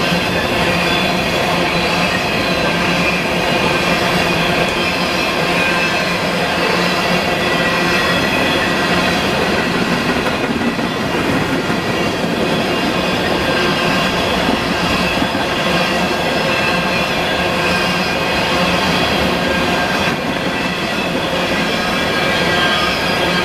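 Freight train cars rolling past at steady speed, their wheels squealing against the rails in several high, thin, sustained tones over a continuous rumble and clatter.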